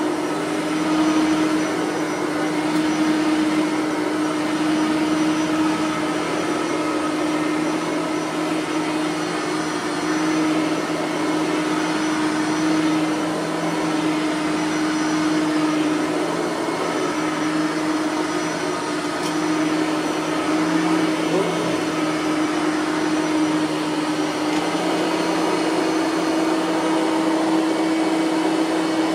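Bissell 3510 bagged upright vacuum cleaner running steadily on carpet, a loud motor whine with a constant hum and rushing air, unbroken throughout.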